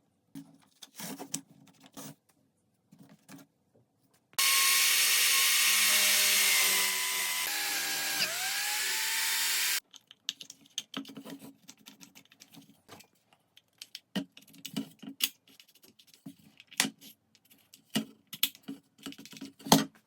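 A power tool running on wood for about five seconds, starting and stopping abruptly, its pitch dropping partway through and sliding down as it winds off. Light knocks and clicks of wooden pieces being handled come before and after it.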